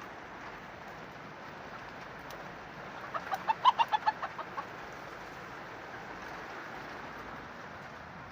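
Silver Sebright bantam chicken clucking: a quick run of about ten clucks lasting about a second and a half, over a steady background hiss.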